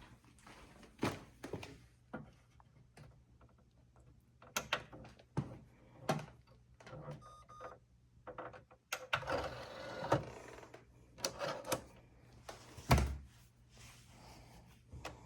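A DVD and player being handled as the disc is loaded: scattered clicks, taps and knocks, a short electronic beep about seven seconds in, and a loud thump near the end.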